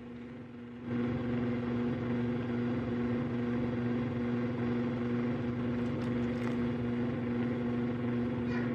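An electric kitchen appliance's steady hum, switching on abruptly about a second in and running evenly with a low droning tone.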